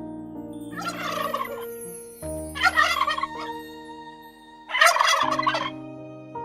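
Domestic turkey gobbling three times, each gobble a harsh rapid warble about a second long, over background music.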